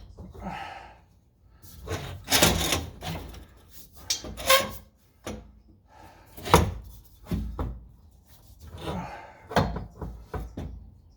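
Irregular clunks, knocks and scraping of metal exhaust parts and tools being wrestled under a car, with a handful of sharper knocks among the rubbing.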